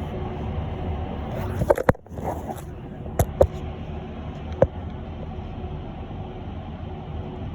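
Inside an electric bus on the move: a steady low rumble of road and running noise, with a handful of short sharp clicks and knocks in the first five seconds.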